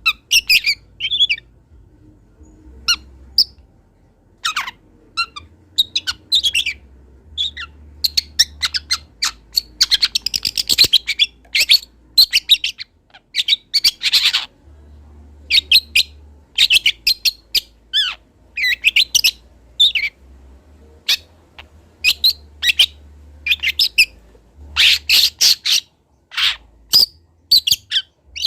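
A young long-tailed shrike (cendet) singing a varied, rapid run of short chirps and whistled notes broken by several harsher, scratchy notes. This is a juvenile's practice song, mixing in mimicked notes of other birds.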